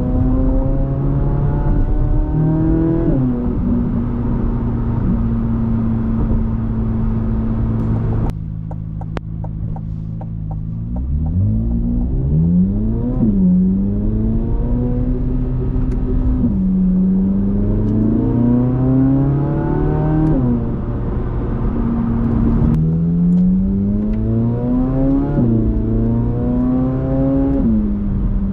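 C8 Corvette Z06's 5.5-litre flat-plane-crank V8 pulling through the gears: revs climb and then drop sharply at each quick dual-clutch upshift, short of redline as during break-in. There is a steady cruising stretch, and a brief lift-off with a few sharp clicks before it pulls again.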